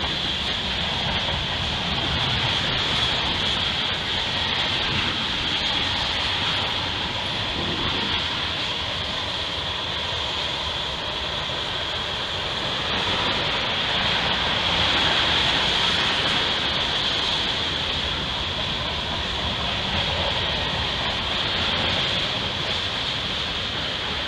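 A freight train of covered hoppers and tank cars rolling past, a steady rumble of wheels on rail with a constant high hiss.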